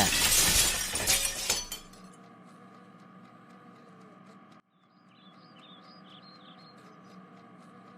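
Glass smashing: a loud crash with tinkling shards, lasting about two seconds. Afterwards a faint background with a few short high chirps.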